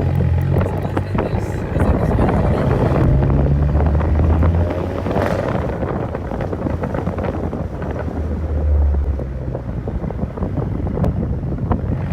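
Volkswagen MK7 GTI's turbocharged 2.0-litre four-cylinder running through a full straight-pipe exhaust with a catless downpipe, with no muffler or resonator. It is a loud low drone under throttle that eases off in the middle and swells again near the end.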